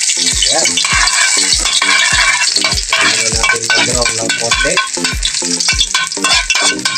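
Chopped ginger sizzling as it fries in hot oil in a wok, stirred with a metal ladle. A steady low beat, about three thumps a second, runs underneath.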